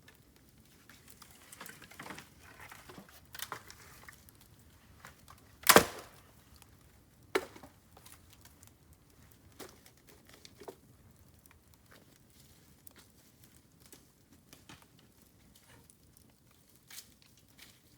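Bamboo burning in an open fire: scattered crackles and ticks, with one loud sharp pop about six seconds in and a smaller one about a second and a half later.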